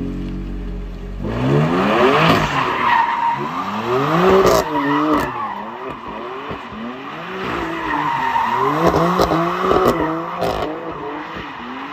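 BMW M3 F80's twin-turbo inline-six revving up and down repeatedly as the car drifts, with its tyres squealing. The engine holds a low steady note for about the first second, then its pitch climbs and falls again every second or so, with a few sharp cracks in between.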